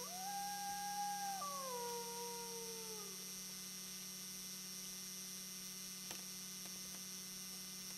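A wolf howling: one long call that holds a steady pitch, drops about a second and a half in, then slides lower and fades out after about three seconds. A faint steady electrical hum runs underneath.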